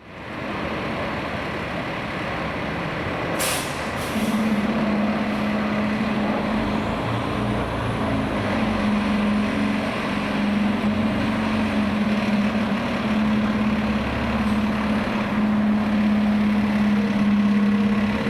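Fire engine's diesel engine running, with a short hiss of air brakes about three and a half seconds in, then a steady low engine drone.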